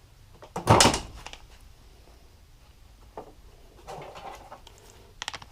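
Hand tools handled at a workbench: one loud metallic clunk under a second in, then fainter knocks and clicks as a tool is set onto the clutch spring bolts.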